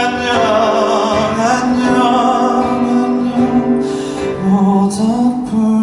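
Male singer-songwriter's live ballad: long held sung notes with vibrato, without clear words, over a slow instrumental accompaniment.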